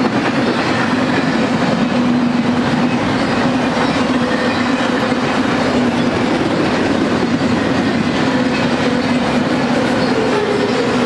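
Double-stack intermodal container train's well cars rolling past: a loud, steady rumble and rattle of steel wheels on the rails, with a steady low hum underneath.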